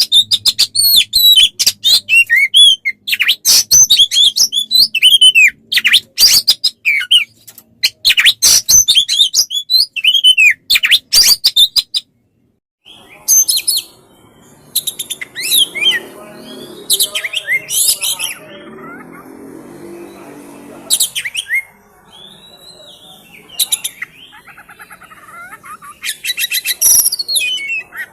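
Caged songbird singing a fast, dense run of chirps, whistles and trills. It breaks off for about a second twelve seconds in, then resumes with sparser phrases over a faint low background noise.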